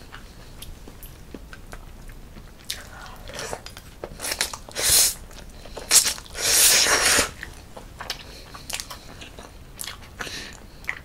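Close-miked eating sounds: biting and chewing a mouthful of cold spicy noodles with banana, with scattered wet clicks and a few longer noisy bursts near the middle, the longest lasting over a second.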